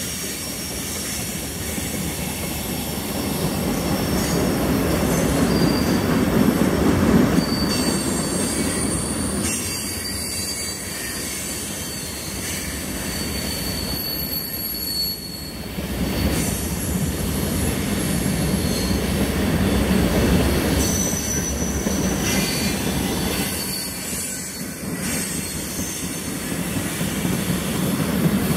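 Freight cars of a passing CSX train rolling by on the rails: a steady rumble of wheels on track that swells and eases as the cars go past, with thin high wheel squeal above it.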